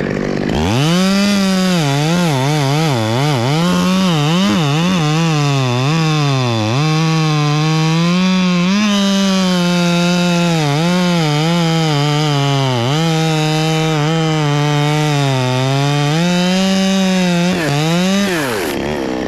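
Two-stroke chainsaw cutting into very hard Australian pine (ironwood), its engine pitch wavering and dipping again and again as the wood loads it down. It starts about half a second in and shuts off near the end.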